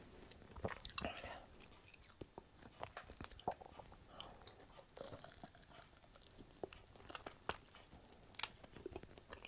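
A person chewing and biting into a sauced hot chicken wing: faint, irregular wet crunches and mouth clicks, with a few sharper bites.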